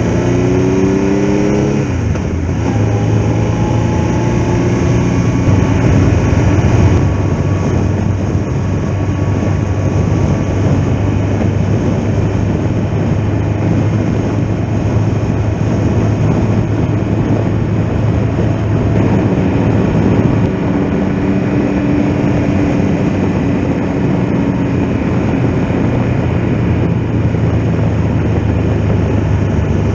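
Triumph Tiger Explorer's three-cylinder engine on the move with heavy wind noise. The engine note climbs, drops about two seconds in with a gear change, climbs again, then settles into a steady cruise.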